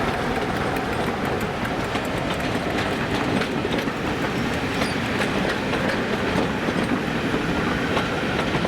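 A train rolling past, its wheels clattering over the rail joints over a steady rumble.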